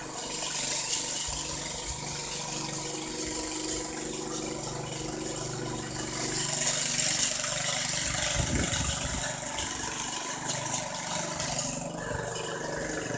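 Engine of a motorised boring machine running steadily, with a mechanical rattle.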